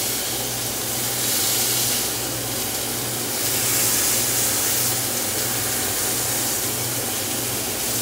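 Chicken strips frying in a pan, a steady sizzling hiss, with a steady low hum underneath.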